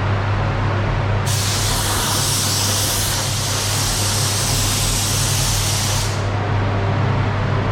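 Paint spray gun hissing in one long burst of about five seconds, starting about a second in, over a steady low hum.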